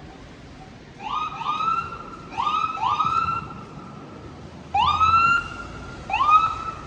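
Emergency vehicle siren giving six short rising whoops in quick pairs, each sweeping up in pitch and holding briefly, over low steady street noise.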